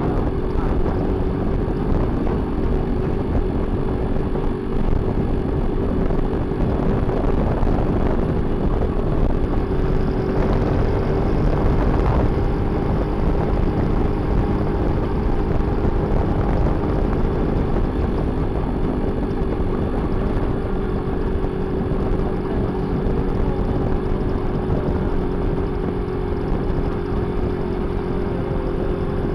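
Suzuki motorcycle engine of a tricycle running steadily while riding, heard from inside the sidecar along with road and wind noise.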